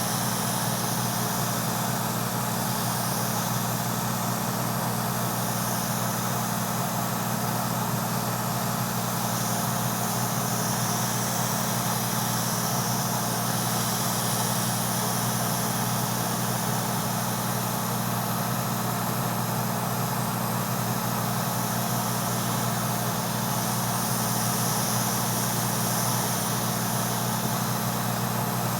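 An airbrush compressor running steadily, with the hiss of air and paint from the airbrush; the level stays even throughout.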